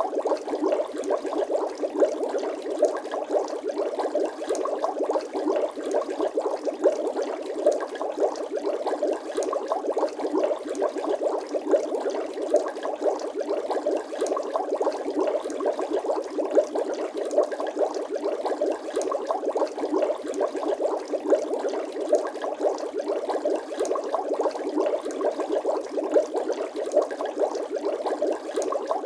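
Bubble sound effect: a steady, dense stream of small bubbles bubbling and popping in water, with no deep bass.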